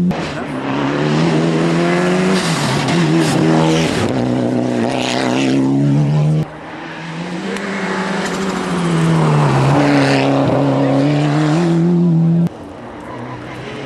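Rally car engines running hard at high revs, the pitch dropping and climbing again several times as the drivers lift off and accelerate. The sound cuts off sharply about halfway through and again near the end.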